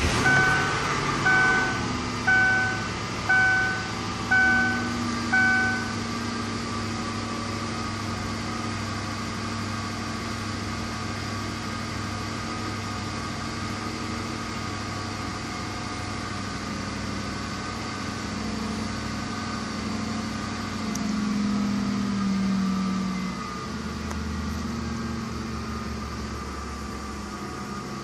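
2002 Lincoln LS's 3.9-litre V8 at fast idle just after a cold start, running steadily as the revs settle toward about 1000 rpm. In the first few seconds the car's warning chime dings six times, about once a second.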